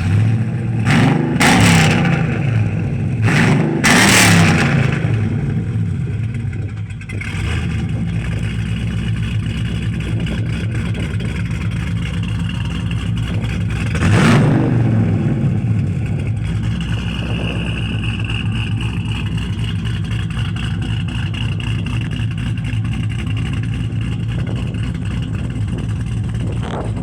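The V8 engine and exhaust of a 2010 GMC Yukon idling steadily, blipped up and back down four times in quick succession in the first few seconds and once more about halfway through, each rev falling straight back to idle.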